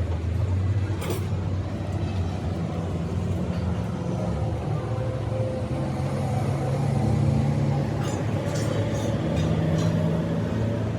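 An engine running steadily, its pitch rising and falling a little, with a few brief clicks.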